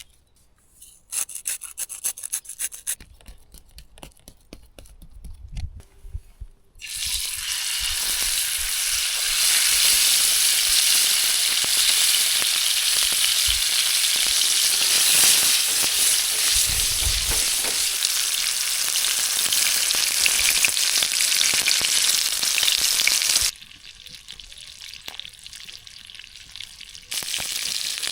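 Ribeye steak sizzling in a hot pan, starting suddenly about seven seconds in after a few light scrapes and clicks. The sizzle drops away sharply near the end, then comes back.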